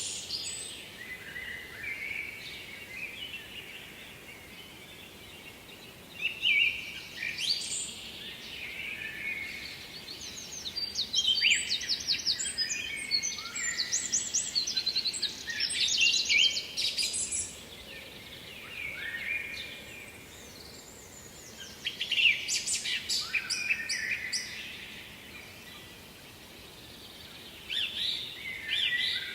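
Songbirds singing in repeated phrases of quick, high notes and trills, with short pauses between the phrases, over a faint steady background hiss.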